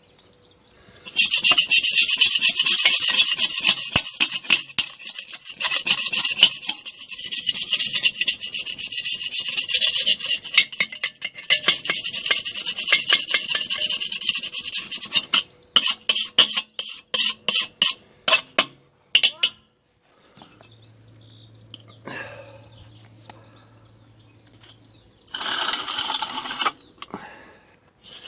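A Weber kettle barbecue being scrubbed clean by hand: fast, rasping strokes for about fourteen seconds, then a handful of separate strokes, a pause, and another short burst of scrubbing near the end.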